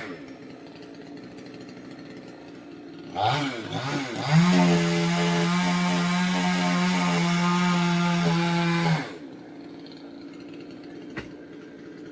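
Two-stroke chainsaw idling, blipped once, then held at full throttle for about four and a half seconds at a steady pitch before dropping back to idle. A single sharp click comes near the end.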